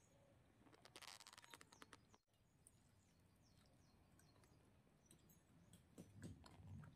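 Faint sounds of eating rice by hand: a short crackly rustle about a second in, then wet chewing and mouth clicks near the end. Faint bird chirps throughout.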